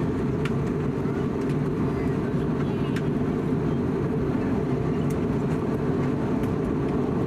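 Steady low rumble of an Airbus A320neo cabin in flight: airflow and engine noise, with faint passenger voices and small clicks in the background.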